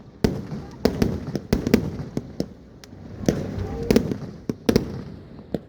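Firecrackers going off in a rapid, irregular string: about fifteen sharp bangs and pops, some in quick pairs, with a low rumble between them.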